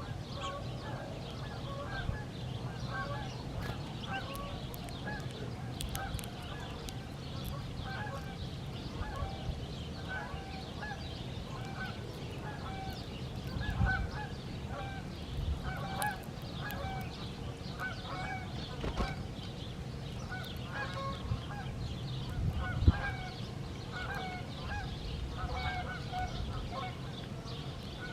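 A flock of birds calling, many short calls overlapping without a break, over a steady low hum, with one sharp knock about two-thirds of the way through.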